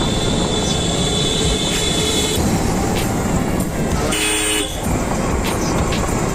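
Road traffic heard from a moving motorcycle, with steady wind and engine noise; a high steady tone sounds for the first two seconds or so, and a vehicle horn toots briefly about four seconds in.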